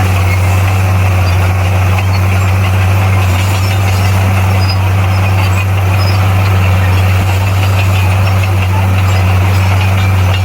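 Bulldozer's diesel engine running steadily with a deep, unchanging drone.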